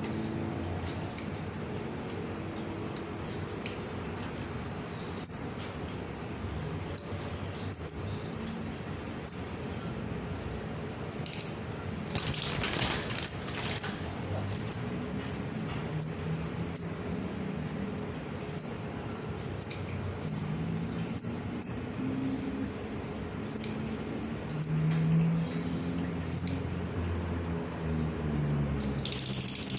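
A small pet bird chirping: short, sharp, high chirps repeated roughly every second, with a brief rush of hissing noise about twelve seconds in.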